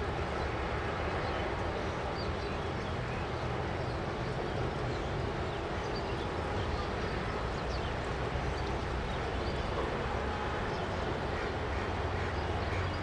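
Steady low rumble of distant jet aircraft engines, with faint high chirps scattered over it.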